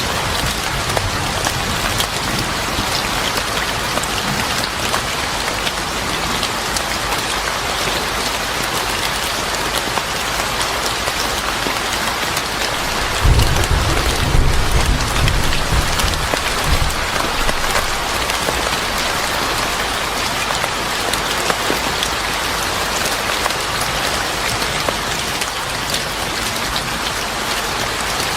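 Steady heavy rain falling on a surface, with a low rumble of thunder lasting a few seconds about halfway through.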